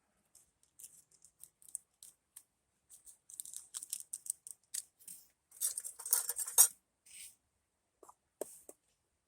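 Crinkling and tearing of a plastic ramen packet in short bursts, loudest a little past the middle, followed by a couple of light metallic clinks near the end.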